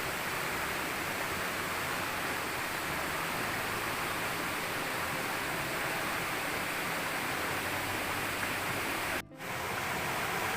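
Waterfall pouring steadily, a dense even rush of water. About nine seconds in it breaks off for a split second and then resumes.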